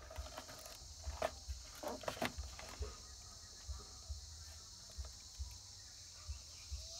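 A steady high-pitched chirring of insects, likely crickets, with a few light clicks and taps of parts being handled about one to two seconds in.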